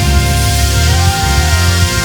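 Live band playing: held chords over a deep bass line.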